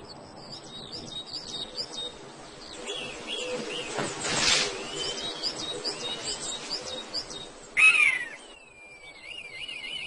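Wild birds chirping and calling: many short high chirps, a louder falling call about eight seconds in, then a long wavering whistle near the end.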